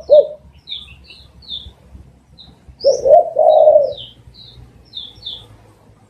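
Spotted dove cooing: one note right at the start, then about three seconds in a phrase of quick notes ending in a longer, drawn-out coo. Short high chirps from another bird come repeatedly throughout.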